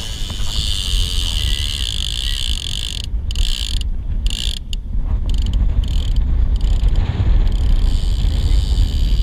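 Wind buffeting the microphone: a steady, loud low rumble from a 15–20 knot breeze.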